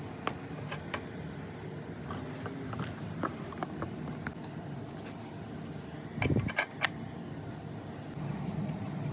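Scattered light clicks and knocks over a steady low hum, with a louder cluster of knocks about six seconds in.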